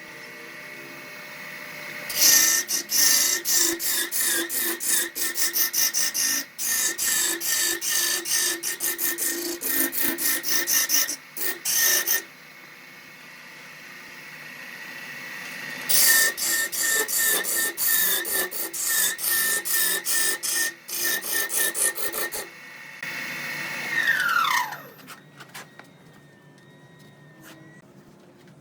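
Wood lathe running with a steady motor whine while a turning tool cuts the spinning wood in two long stretches of rapid scraping. Between them only the motor is heard. About two-thirds of the way through, the whine falls in pitch as the lathe spins down.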